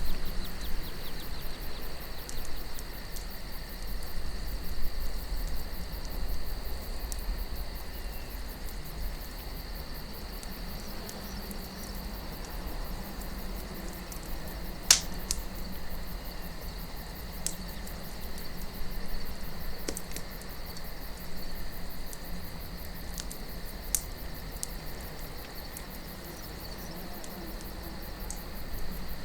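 Campfire crackling, with a few sharp pops of burning wood, the loudest about fifteen seconds in, over a low wind rumble and a steady high chorus of crickets.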